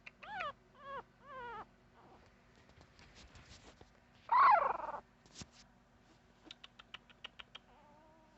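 A puppy whining: three short wavering whines, then a louder whine about four seconds in that falls in pitch. A quick run of short ticks follows near the end.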